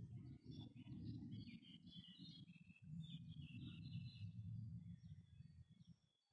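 Birds chirping in the background: many short, high calls over a low, uneven rumble that cuts off near the end.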